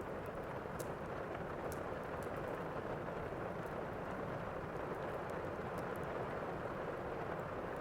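Steady heavy rain, an even rushing hiss, with occasional faint sharp crackles on top.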